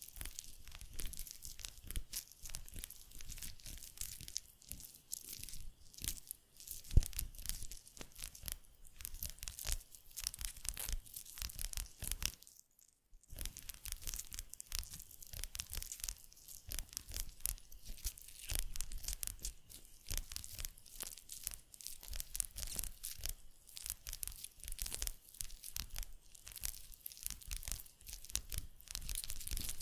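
Close-miked ASMR tactile sounds: dense, rapid crackling and scratching strokes, with one sharper click about a quarter of the way in and a brief pause about halfway.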